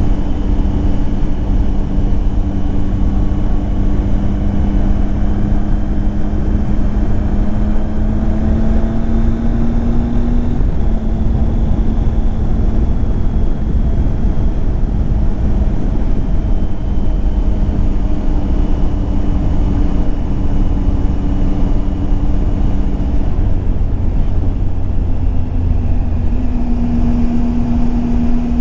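Triumph Tiger 800 XCX's three-cylinder engine running under way with heavy wind rush. The engine note climbs slowly, drops sharply about ten seconds in, and rises again near the end.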